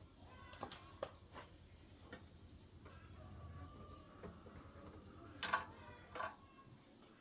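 Quiet background with a faint low hum and scattered light clicks, then two short animal calls about five and a half and six seconds in, the louder of the sounds.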